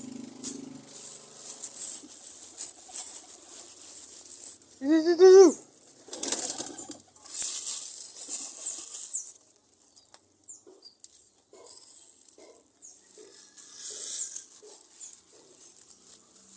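Pigeons flapping their wings in repeated flurries, with one short, loud rising call about five seconds in; quieter short sounds follow in the second half.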